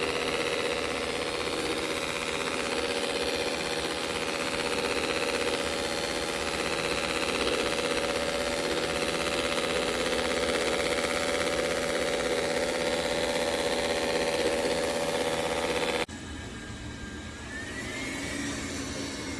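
Dreame L10s Ultra robot vacuum-mop running steadily with a motor whine. About three-quarters of the way through it drops abruptly to a quieter hum, with a whine that rises and then falls.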